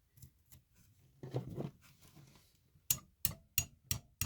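Light, even taps of a hammer on a rock being split open, about three a second, starting about three seconds in, after a brief scrape of the rock being handled.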